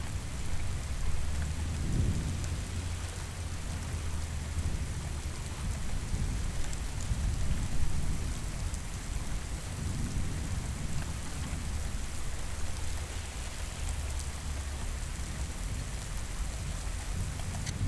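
Steady rain falling, with low rolling rumbles of distant thunder that swell and fade, one around two seconds in and another a little past the middle.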